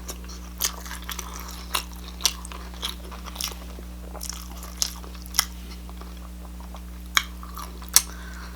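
Close-miked eating: food being chewed, with short, sharp crunches at irregular intervals, about one a second.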